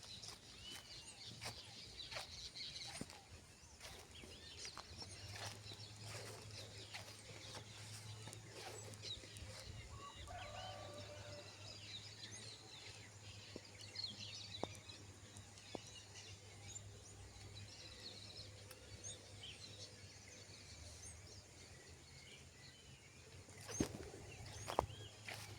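Light rain falling, heard as scattered drips and taps, with faint bird calls over it. Two louder knocks come near the end.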